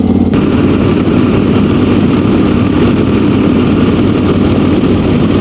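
Yamaha Super Ténéré motorcycle's parallel-twin engine running steadily. Just after the start its even hum turns rougher.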